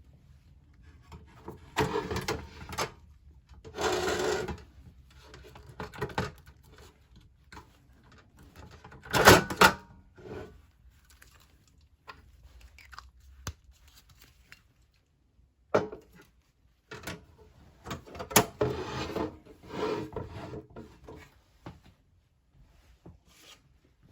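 Bursts of rubbing and scraping from objects being handled, with a few sharp knocks or clicks between them.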